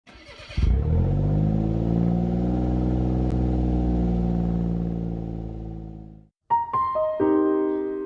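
Mercedes-Benz SLK350's V6 engine catching about half a second in and running at a fast idle that slowly settles, then cutting off abruptly. Piano music follows about six and a half seconds in.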